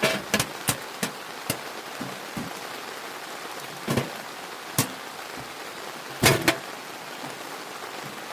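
Steady rain falling, with scattered sharp knocks and taps at irregular intervals, the loudest a close pair about six seconds in.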